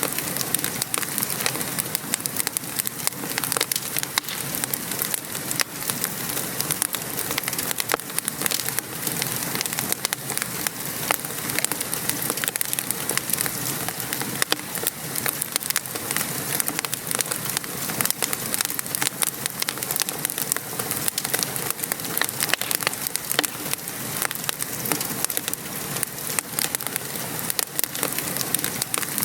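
Wood fire crackling in a fireplace, a constant run of small sharp pops and snaps, over the steady patter of rain.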